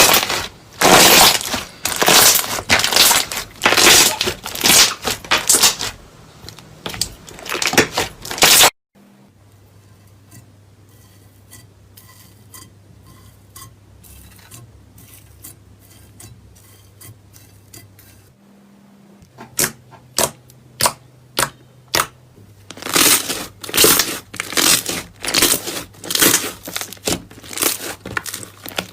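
Slime being squeezed and pressed by hand, making dense runs of sticky crackling and popping. A quieter stretch of about nine seconds in the middle holds only faint clicks, then scattered pops build back into dense crackling.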